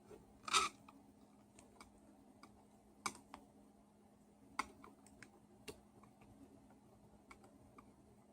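Scattered light clicks and taps of small parts and tools being handled while a hammer drill is reassembled. The biggest clatter comes about half a second in, with sharper single clicks around three, four and a half and five and a half seconds, over a faint steady hum.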